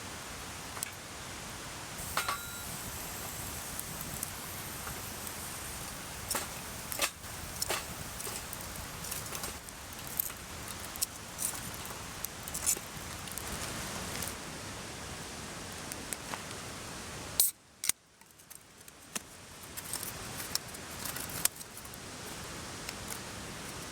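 Steady rush of a mountain stream with many short sharp clicks and clinks scattered over it. About three-quarters through, the sound cuts out briefly after a sharp click, then fades back in.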